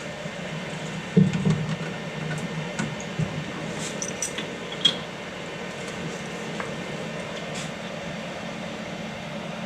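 Steady whir of a 3D printer's cooling fans running with the hot end heated, with a few light clicks and taps of handling in the first half.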